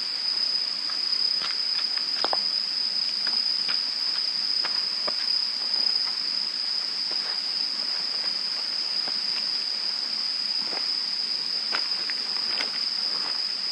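Insects trilling in one continuous, steady high-pitched tone, with scattered light clicks and taps.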